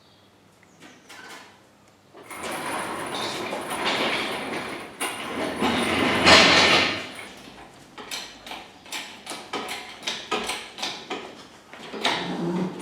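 A heavy engine shifting and scraping on wooden blocks as the engine crane lowers it, loudest about six seconds in, followed by a run of short irregular knocks and clicks.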